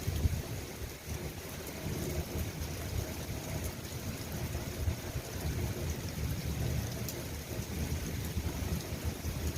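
Steady rain falling, a continuous hiss scattered with faint drop ticks, over a low, uneven rumble.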